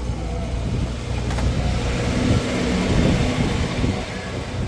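A vehicle engine running, with a low rumble that swells about two to three seconds in and then eases off.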